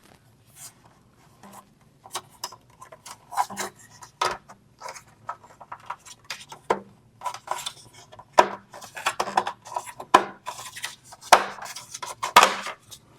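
Parts of a bird feeder kit being handled and fitted together: irregular clicks, taps and short rubbing scrapes as pieces are pulled out and tried in place.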